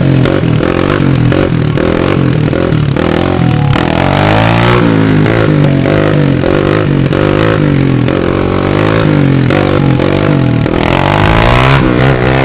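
Small off-road vehicle engines, dirt bikes or four-wheelers, revving hard and easing off again and again, the pitch climbing and falling several times.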